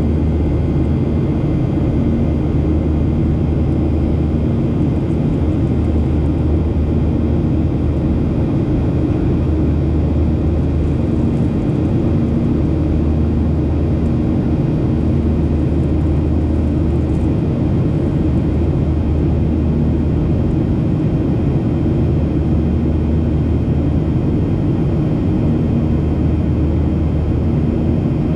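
Steady cabin noise inside a Boeing 737 airliner in flight: the engines' drone and rushing airflow, with a low hum that swells and fades every few seconds.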